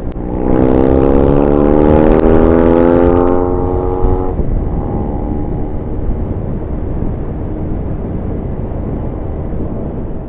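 Motorcycle engine, the Hero XPulse 200's air-cooled single-cylinder, pulling hard with its pitch climbing for about four seconds. It then drops back to a steady cruise under wind rush.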